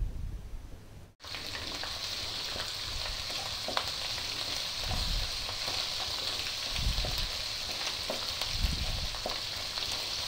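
Ginger-garlic paste sizzling in hot oil in a non-stick karahi, stirred with a wooden spatula. The steady frying hiss sets in about a second in, with small scraping ticks from the stirring.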